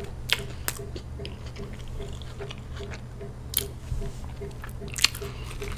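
Close-miked chewing of food, with a few sharp mouth clicks spread through it over a low steady hum.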